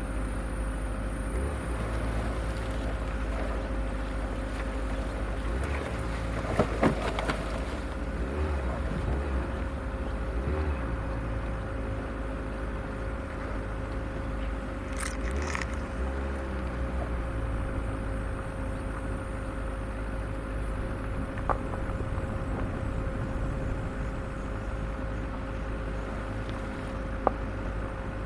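Off-road vehicle driving slowly along a rough forest track, its engine running steadily, with a few sharp knocks as it goes over bumps or brushes branches.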